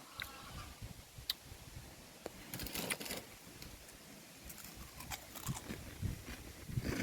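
Scattered light clicks, knocks and rustling from hands-on work and handling, with an uneven low rumble underneath that grows toward the end.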